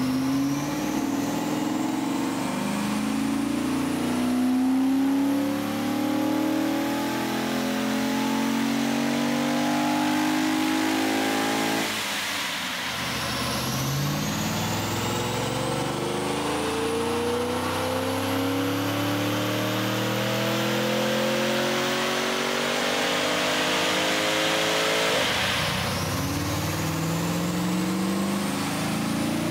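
Holden VE SS Ute's 6.0-litre V8 pulling under load on a chassis dyno, its revs climbing steadily for about twelve seconds, dropping, climbing again for another twelve, then starting a third climb near the end. The loud induction noise comes from an over-the-radiator cold-air intake.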